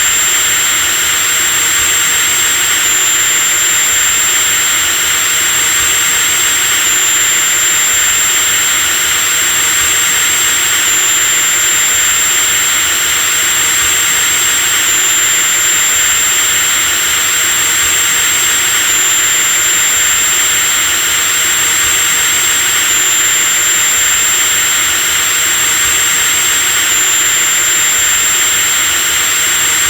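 Electric drill running without a break at steady speed: a high motor whine over a dense, even hiss.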